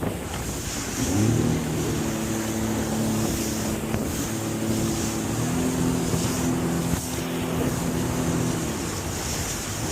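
Jet ski engine running at a steady throttle while riding on the water, its tone shifting once about halfway through. Wind rushes over the microphone throughout.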